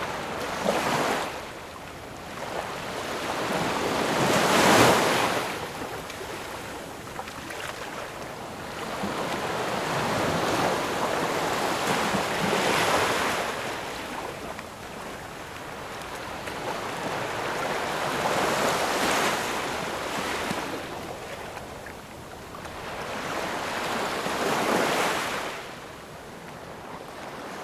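Ocean waves breaking on a shore, one wave cresting about every six seconds. The loudest breaks come about five seconds in, with the surf hissing between breaks.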